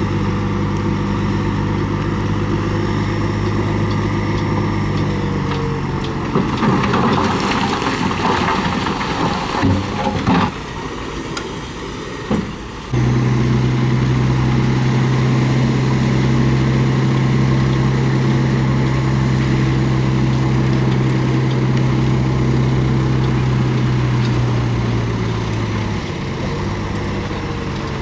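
Komatsu D31P bulldozer's diesel engine running steadily. About a quarter of the way in, a rough, noisy clattering stretch lasts several seconds, followed by a quieter spell with a click. The engine note then comes back suddenly louder and holds steady, easing slightly near the end.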